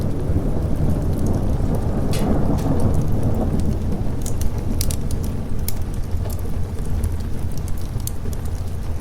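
Steady rain with a roll of thunder swelling about two seconds in and fading over the next couple of seconds, over the sharp crackles of a wood fire.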